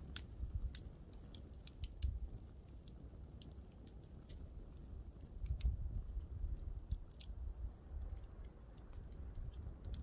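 Wood campfire crackling, with frequent sharp irregular pops over a low, uneven rumble.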